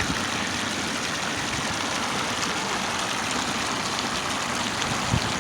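Steady rushing outdoor background noise with a single short knock near the end.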